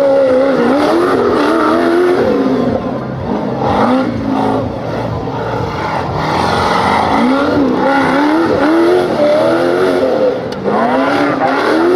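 Off-road 4x4 competition vehicle's engine revving hard, its pitch rising and falling again and again as the driver works the throttle.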